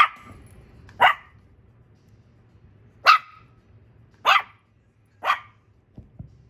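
Shih Tzu–poodle mix puppy barking for attention: five short, sharp, high barks, one to two seconds apart.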